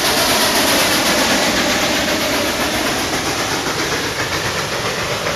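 Steam train rolling past close by: a loud, steady rush of locomotive and cars on the rails, easing slightly over the second half.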